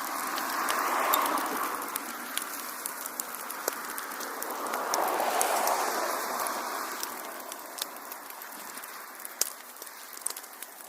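Wood fire crackling with scattered sharp pops, and two swells of rushing flame noise, about a second in and again around five seconds in.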